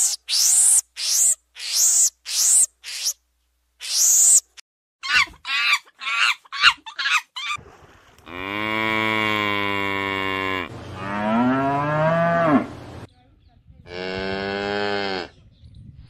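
A bovine mooing: one long, steady moo, then a second moo that rises and falls in pitch, and a shorter moo near the end. Before them come about seven short, very high chirps in the first four seconds and a quicker run of squeaky calls.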